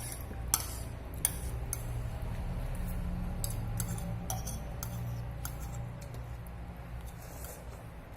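Eating utensils clicking and clinking against a bowl of noodles while eating: a dozen or so sharp light clicks at irregular intervals, over a low steady hum.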